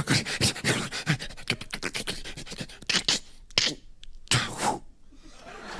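Vocal sound effects made by a performer into a microphone: a quick run of clicking, snipping mouth noises, then two short hissing bursts.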